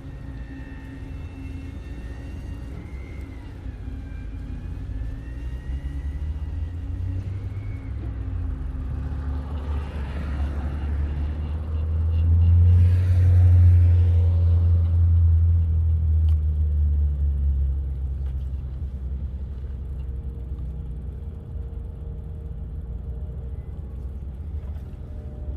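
Low motor-vehicle rumble that swells, is loudest about halfway through with a brief rush of hiss, and then fades away, as of a vehicle going past.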